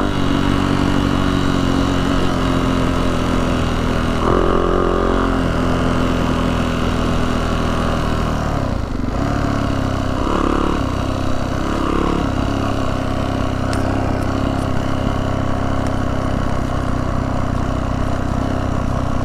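Yamaha YZ450F dirt bike's single-cylinder four-stroke engine running under way at fairly steady throttle, with a brief easing off about nine seconds in and some throttle changes soon after.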